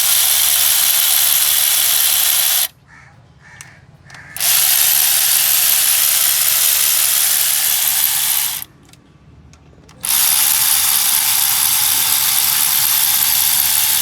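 Compressed-air tool running in three long bursts of loud hiss, each lasting a few seconds, with short pauses between.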